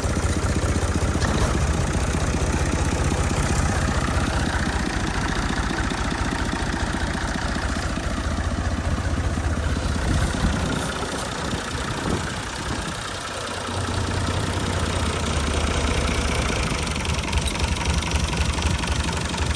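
65 hp tractor's engine running steadily. Its low rumble drops away for a couple of seconds a little past the middle, then picks back up.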